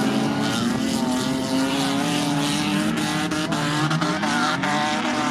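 Several banger racing cars' engines revving on the oval, overlapping pitches rising and falling as the cars accelerate and ease off, with a few sharp knocks in the middle.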